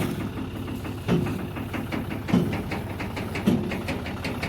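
Farm machinery engine running steadily, with a heavy thump repeating evenly a little more than once a second and lighter clicks between.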